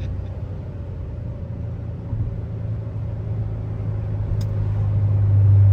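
The supercharged LT4 V8 of a C7 Corvette Z06 with an aftermarket stage 2 camshaft, a steady low drone while driving, growing louder over the last second or two as it pulls harder.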